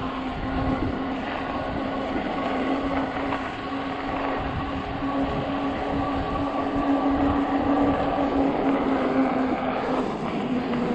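Fat-tire electric bike riding: a steady hum from the tyres and drive, with a steady low tone and fainter higher tones over rushing noise.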